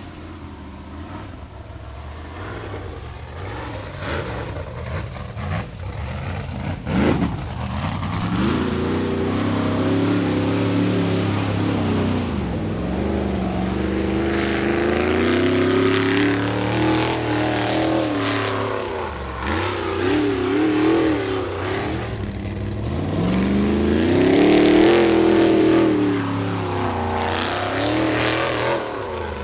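Rock bouncer buggy's engine revving hard in repeated bursts, the pitch rising and falling over and over as it works up a climb. It grows louder from about seven seconds in, with a few sharp knocks before that.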